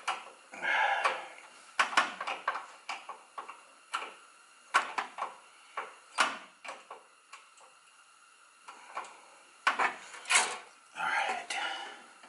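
Wrench clinking and scraping on the metal brake line fitting as a 9/16 nut is worked loose: a series of sharp irregular metal clicks and taps, with two short rasping bursts, one near the start and one near the end.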